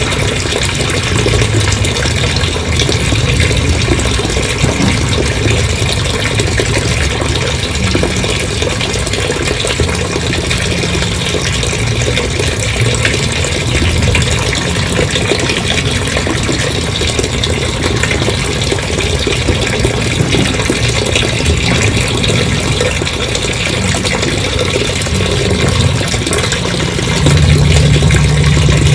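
A large volume of water gushing out steadily, with an engine running underneath; the engine grows louder near the end.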